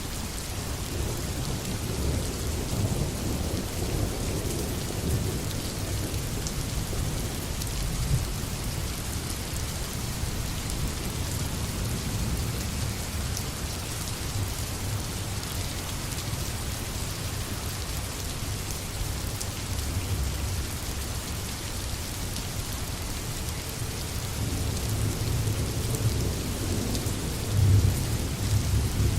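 Steady rain falling, with a low rumble underneath that grows louder near the end.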